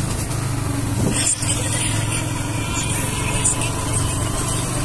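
Yamaha R15's single-cylinder engine running steadily as the motorcycle rides along at low speed, with wind noise over the microphone.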